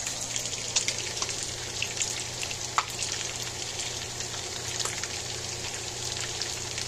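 Chicken pieces frying in hot oil in a pot: a steady sizzle with scattered crackles and pops.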